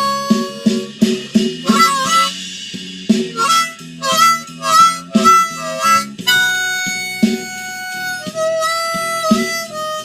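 Blues harmonica solo over drum and bass backing tracks: quick bent and wavering notes in the first half, then longer held notes.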